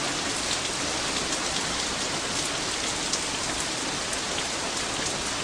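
Rain falling steadily: a dense, even hiss with faint scattered pattering ticks.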